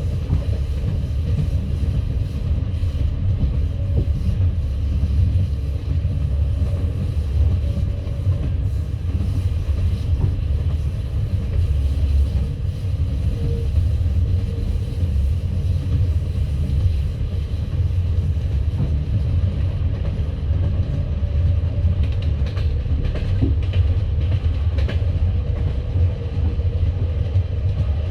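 Passenger train carriage running along the track, heard from inside the coach: a steady low rumble of the wheels on the rails, with a few faint clicks of wheels over rail joints near the end.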